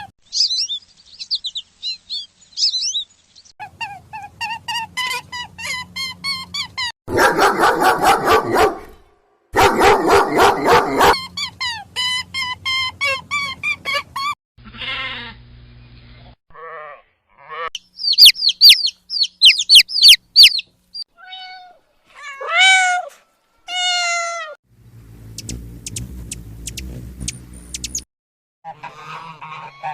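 Calls of several different birds in short clips one after another: high chirps, runs of repeated calls and a few calls that swoop up and down in pitch, broken by sudden cuts.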